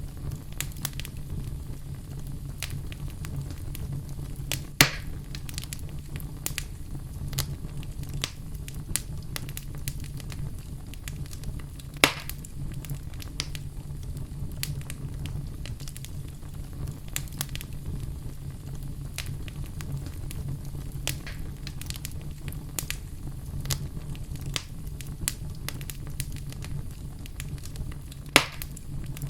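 Wood fire in a fireplace crackling steadily over a low, even rumble. Three much louder pops stand out: one about five seconds in, one about twelve seconds in, and one near the end.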